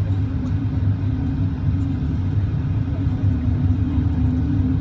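Steady low rumble inside the cabin of a Boeing 777-200ER with its engines at idle, a steady hum riding on top; no spool-up.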